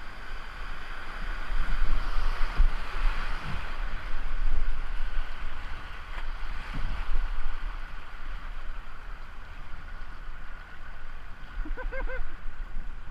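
River water rushing and splashing around a kayak, with wind buffeting the microphone in low, gusty rumbles. A short pitched call comes near the end.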